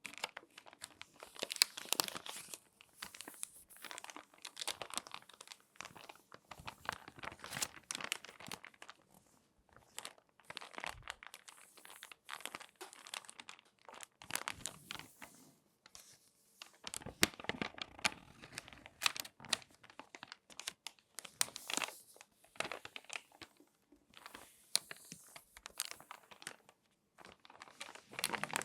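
Crinkly magazine pages being folded and creased by hand: irregular bursts of crackling and crumpling paper with short pauses between folds.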